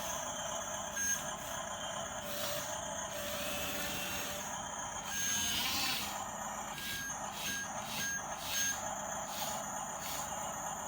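Toy radio-controlled bulldozer running, its small electric motor and gearbox whining steadily. A series of short high electronic beeps sounds about a second in and again from about five to nine seconds, like a reversing warning.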